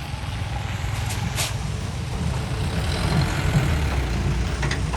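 Hand tractor's diesel engine running steadily with a low, even drone, with a few sharp clicks about a second in and near the end.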